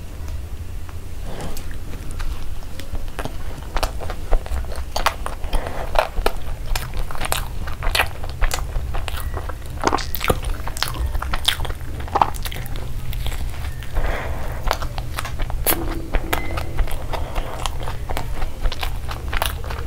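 Close-up eating sounds of a chicken burger being bitten and chewed: a crumb-coated fried chicken patty and soft bun. Many sharp, crisp crunches come at irregular intervals.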